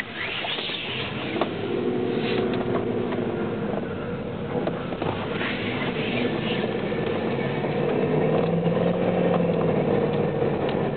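A 2002 Dodge Durango's engine running with a cold engine, its note slowly rising and falling. Short high-pitched squeals come near the start and again around five seconds in. This is the cold-engine noise the owner is asking about, which goes away once the motor warms up.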